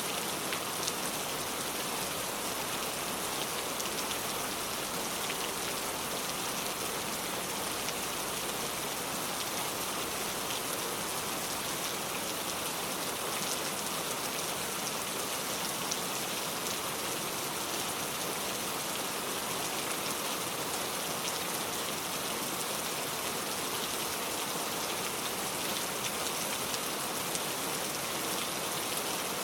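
Steady rain falling on a car, a dense even patter of drops on the body and glass.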